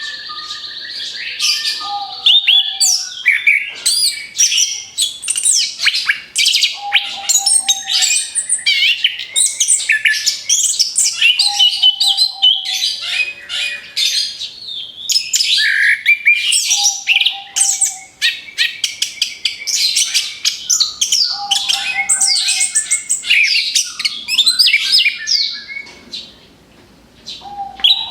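Orange-headed thrush (anis kembang) singing a long, continuous song of rapid, ever-changing high notes, chatters and sweeping whistles, the fast-fire 'tembakan' style. It drops away briefly near the end.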